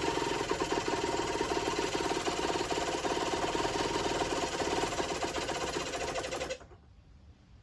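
Small two-stroke engine of a Generic Trigger SM 50cc running steadily with a fast, rattly pulse, then cutting out abruptly about six and a half seconds in.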